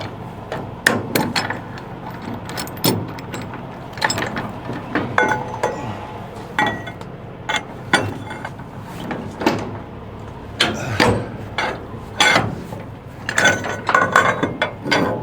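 Irregular metallic clinks, knocks and ratcheting of tie-down gear, chains, binders and strap ratchets, being handled while securing a load on a flatbed trailer.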